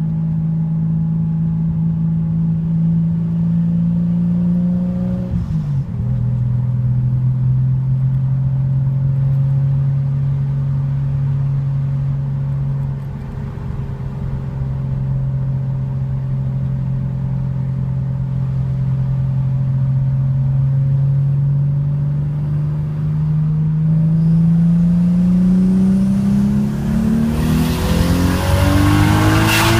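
Nissan Skyline R33 GTS-T's turbocharged RB25DET straight-six, heard from inside the cabin. It runs steadily, drops in pitch at an upshift about five seconds in, then holds an even tone while cruising. Near the end the revs climb and it goes into hard acceleration, much louder, with the pitch rising.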